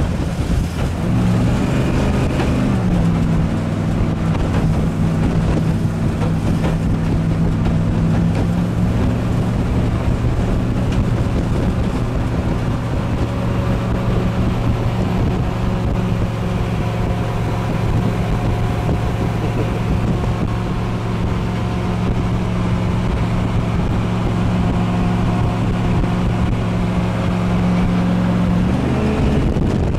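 Jet boat engine running steadily under way, with the rush of water and wind on the microphone. The engine note drops about two to three seconds in and rises again near the end.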